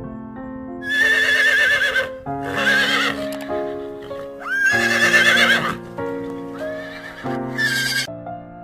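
A horse neighing several times, high wavering whinnies, over background music played in steady notes.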